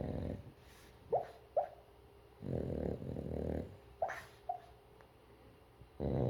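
A sleeping dog snoring and whimpering in its dream: long snores of about a second each, with pairs of short, high, rising whimpers between them. The first whimpers come about a second in and the next pair about four seconds in, each pair after a snore.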